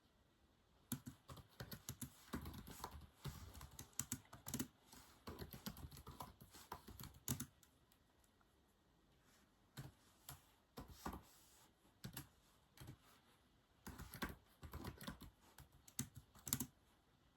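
Typing on a keyboard: runs of quick, light keystrokes, stopping for a couple of seconds midway, then sparser keys and a final quick run near the end.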